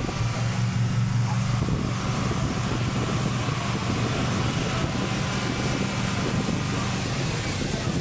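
A motor vehicle's engine running steadily, with wind noise on the microphone.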